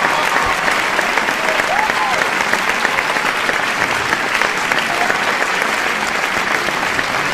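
Large audience applauding steadily, with a few scattered shouts from the crowd, one about two seconds in.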